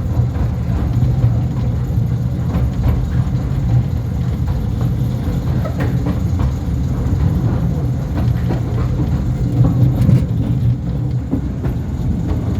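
Battery-electric narrow-gauge Mail Rail train running through its tunnel, heard from on board: a steady low rumble with light scattered clicks and rattles from the wheels on the track.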